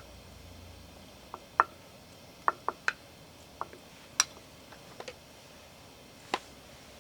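A scattered series of sharp clicks and taps, about a dozen, irregularly spaced over a quiet background, a few with a short ringing tone.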